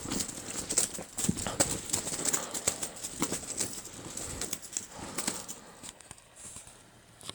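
A cat huffing quick, forceful puffs of breath through its nose in play, a rapid run of short snorts. It is out of breath. The huffing dies away over the last two seconds.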